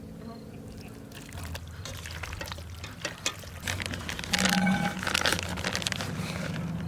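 Pasta boiling in water in a pot on a camp stove, with the steady sound of the burner and bubbling. Scattered clicks and scrapes of a utensil in the pot come partway through, with one brief ring of metal.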